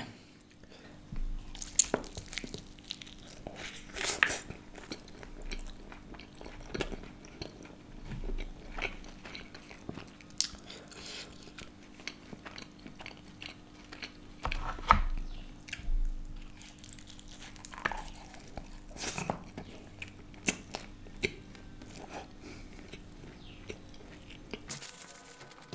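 Close-up biting and chewing of a slice of thin-crust pizza topped with flat noodles, with irregular crisp crunches as the crust breaks.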